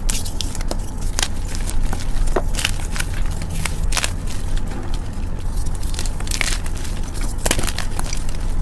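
Gym chalk being crushed by hand, with soft, irregular crunching and crackling and a steady low hum underneath.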